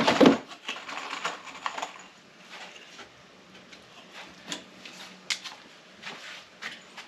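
Handling noises: a loud knock at the start, then scattered clicks and taps.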